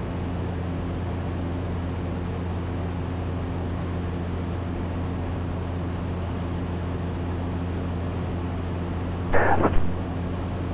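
Ikarus C42 light aircraft's engine and propeller droning steadily in flight, heard from the cockpit. A short burst of voice cuts in about nine seconds in.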